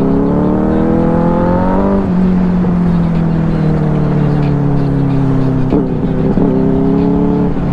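Benelli 600i motorcycle's inline-four engine accelerating, its pitch climbing for about two seconds before dropping sharply at an upshift, then pulling steadily with the revs slowly falling. A few short blips come near the end.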